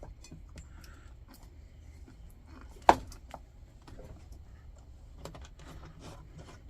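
Small metal lantern parts being handled on a workbench: scattered light clicks and taps, with one sharp metallic clack about three seconds in.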